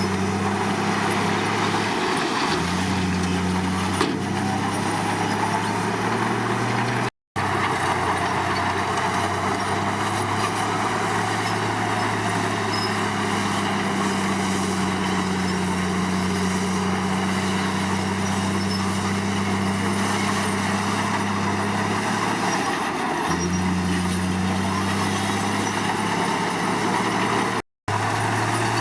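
Komatsu D53 crawler bulldozer's diesel engine running steadily under load, with the engine note stepping in pitch a few times as the load changes, over a broad clatter of machinery. The sound drops out completely for an instant twice.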